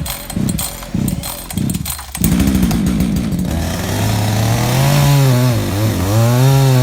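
A rhythmic pulsing about twice a second, then a chainsaw engine running hard, its pitch repeatedly rising and dipping as it revs and loads in a cut.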